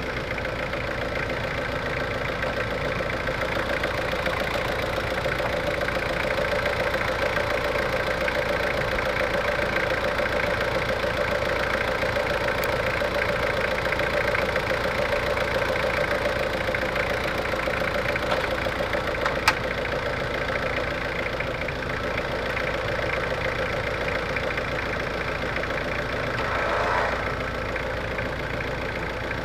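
Vehicle engine idling steadily, a constant hum with a sharp click about two-thirds through.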